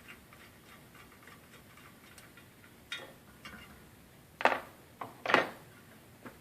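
Hand tools working on the fan clutch: light metallic ticking and clicking, then two louder metal clanks about four and a half and five and a half seconds in.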